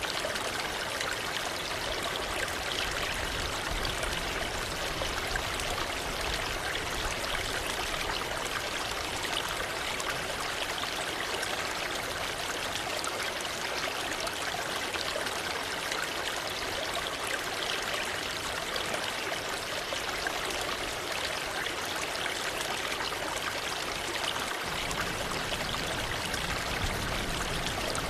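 Waterfall: water rushing and splashing in a steady, unbroken flow. The deep rumble underneath shifts abruptly near the end.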